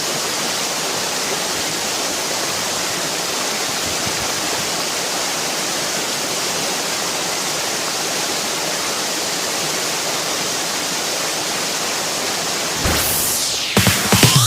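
Steady rushing water, an even hiss with no change in level. Near the end a downward-sweeping whoosh leads into electronic dance music.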